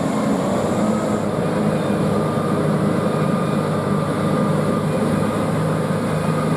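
Steady running noise of a heavy vehicle engine, as of a big dump truck, cutting in abruptly.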